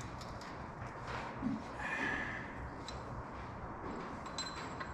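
Light metallic clicks and taps from hand tools working tight valves out of a stripped engine, with a short scrape about two seconds in.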